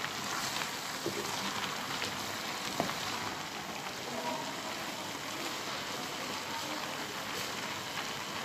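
Chopped spinach and radish frying in a pan in their own moisture with no water added: a steady sizzle with fine crackling. A single light knock about three seconds in.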